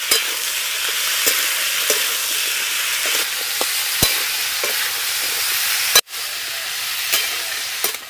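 Mixed vegetables sizzling steadily in hot mustard oil in a metal kadai, with a metal spatula clicking and scraping against the pan as they are stirred. The sound drops out for an instant about six seconds in.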